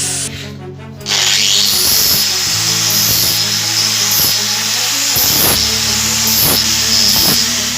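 Background music over the steady hiss and whine of a power tool working metal. The tool cuts out briefly just after the start and runs again from about a second in.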